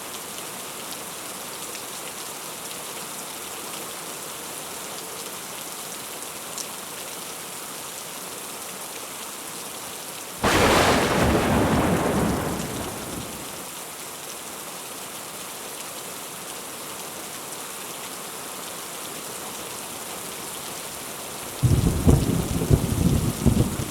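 Steady heavy rain falling. About ten seconds in a sudden crack of thunder breaks and rumbles away over a few seconds; near the end a second thunderclap starts, crackling and rumbling.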